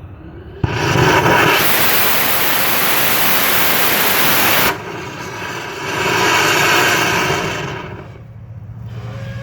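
Small solid-propellant rocket motor with two BATES grains firing on a static test: it lights suddenly with a bang and burns with a loud, steady rushing roar for about four seconds, then cuts off abruptly at burnout. A quieter rush of noise then swells and fades over the next few seconds.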